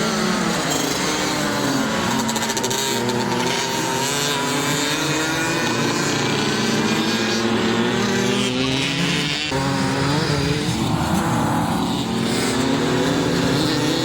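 A pack of flat-track racing motorcycles running together, several engines revving and easing off at different pitches as they lap.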